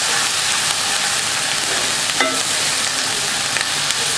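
Onion paste sizzling steadily as it fries in ghee and mustard oil in a nonstick wok, stirred with a wooden spatula.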